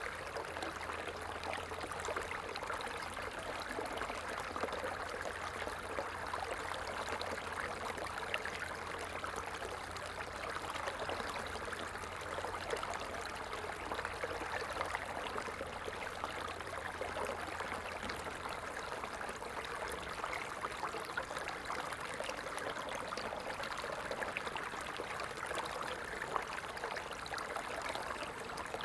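A stream running and trickling steadily, an even rush of water with many fine ticks of small splashes.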